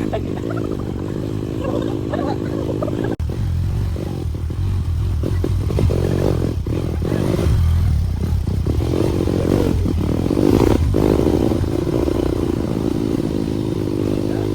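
Motorcycle engine running as the bike is ridden, with scattered clattering and rattling. The sound drops out for an instant about three seconds in.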